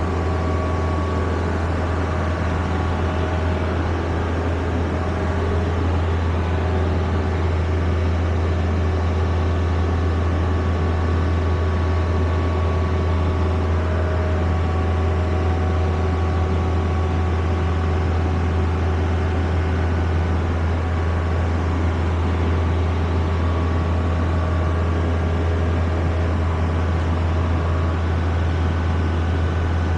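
Steady low engine drone that does not change, with a few faint steady higher tones over it.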